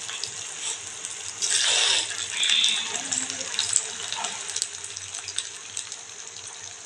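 Potato pieces deep-frying in hot oil in an iron kadai: a steady sizzling hiss dotted with small crackles and pops, with a louder surge of sizzling about a second and a half in.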